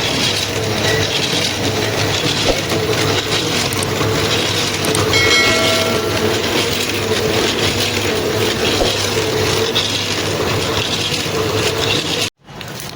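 A machine running with a loud, steady clattering rattle. A brief horn-like tone sounds about five seconds in, and the sound cuts off abruptly about twelve seconds in.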